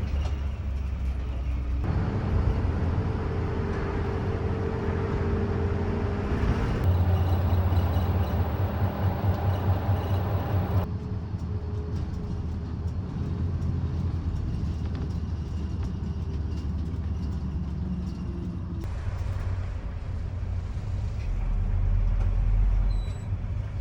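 Engines running with a steady low hum, the sound changing abruptly several times from one cut to the next, with a louder deep rumble near the end.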